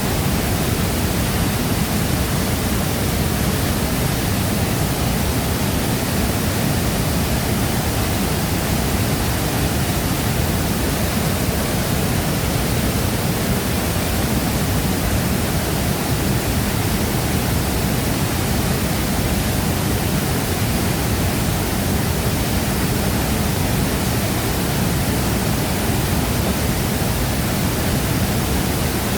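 A large waterfall pouring steadily: a loud, unbroken rush of falling water, heaviest in the low rumble.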